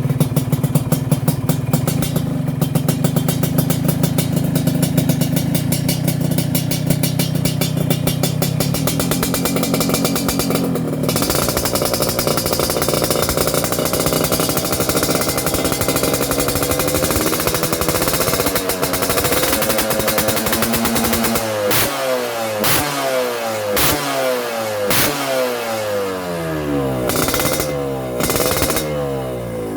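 Yamaha RX-King two-stroke single running through an aftermarket underslung 'Kobra' exhaust: it idles with a fast, even popping for about ten seconds, is then held at higher revs, and in the last eight seconds is blipped repeatedly, the revs rising and falling about once a second.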